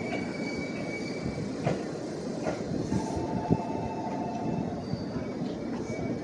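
Train moving along the platform: a steady low rumble of wheels on rail with scattered clicks, and faint thin squealing tones from the wheels on and off, including one about halfway through.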